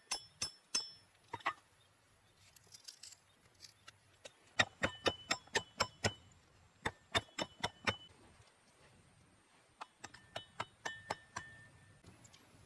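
Sharp clinks of hard objects knocking together, coming in quick irregular runs, some ringing briefly at a high pitch.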